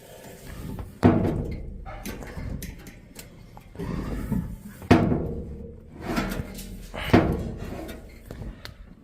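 Washing machine shaking and banging, with three heavy thuds about one, five and seven seconds in over a low rumble.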